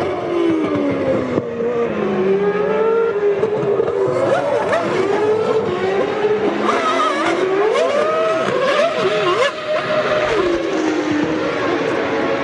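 Formula One racing cars' engines passing, several at once, their pitch rising and falling through the revs and gear changes.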